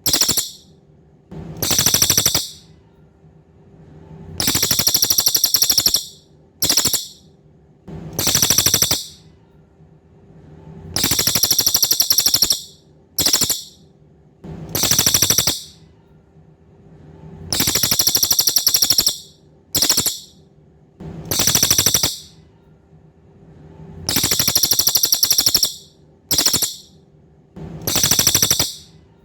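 Cililin bird singing loud, very high, rapid rattling trills. The trills come in bouts of about a second to a second and a half, some followed by a short clipped burst, and repeat every three seconds or so.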